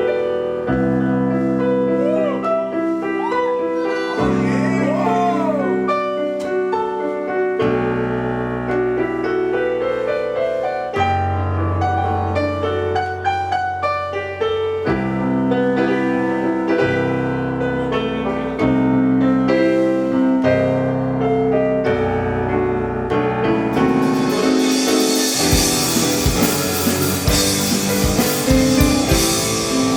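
Live rock band playing: sustained electric keyboard chords change every couple of seconds, then cymbals and a drum kit come in about three-quarters of the way through, with guitar, as the full band starts.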